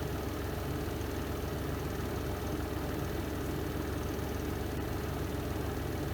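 Renova semi-automatic twin-tub washing machine's spin drum running steadily through its spin cycle, a constant low hum.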